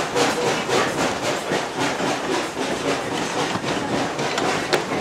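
Train car rolling along the track behind a steam locomotive: a steady rattling rush of noise with quick, uneven clattering knocks from the wheels and car body, and one sharp click near the end.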